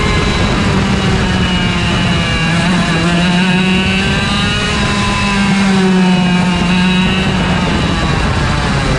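IAME Leopard 125cc two-stroke kart engine running hard on track, its pitch climbing under acceleration and dropping back several times as the driver lifts for corners.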